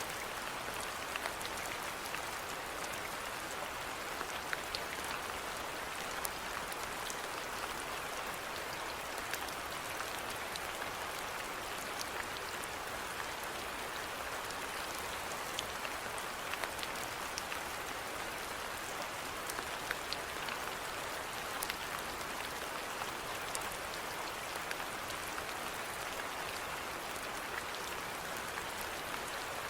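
Steady rainfall, an even hiss with scattered individual drops ticking throughout.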